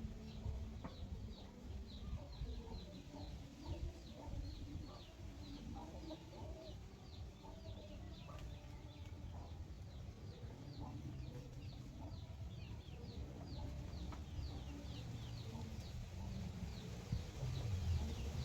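Free-range backyard chickens clucking softly, over a steady run of high, short, falling peeps repeated about three times a second.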